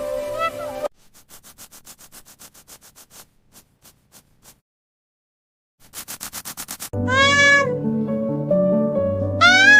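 Light background music with a cat meowing. The music stops for a run of quick faint clicks that fade away, then after a short silence a brief burst of faster, louder clicks, before the music and a meow return near the end.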